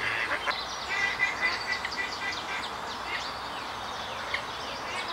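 Small birds singing and chirping, many quick high calls overlapping, over a steady background hiss.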